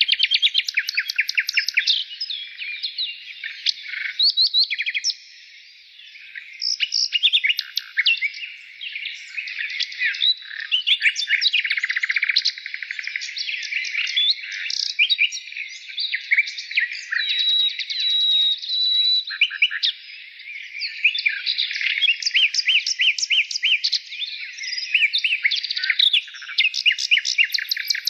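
Many birds chirping at once: a dense, unbroken run of quick overlapping chirps and trills, thinning briefly about five seconds in.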